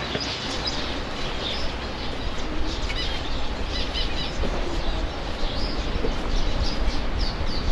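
Many small cage birds chirping and twittering at once, with short high calls scattered throughout, over a steady low rumble.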